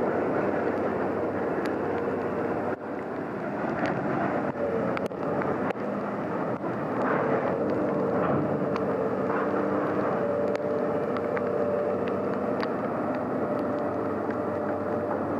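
A heavy machine's engine running steadily, its pitch shifting slightly, with scattered knocks and clanks.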